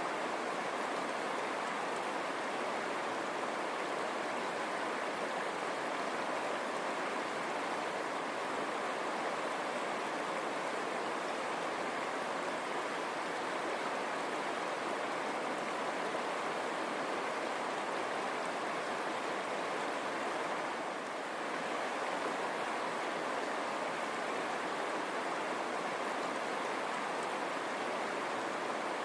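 River water running steadily over stones, a continuous even rush.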